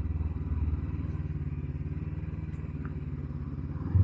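Honda CB500X parallel-twin engine running steadily at low revs, as the motorcycle idles or rolls slowly, getting louder right at the end.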